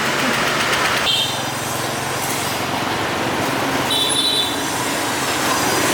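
Motorbike engine running steadily on the move, with rushing road and wind noise. A brief high chirping sound comes in twice, about a second in and about four seconds in.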